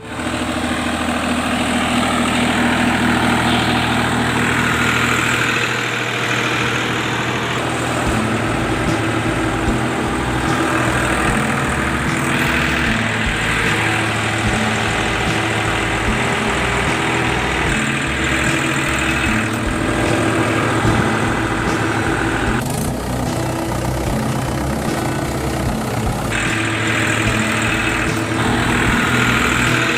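An engine running steadily, with a few shifts in its sound along the way.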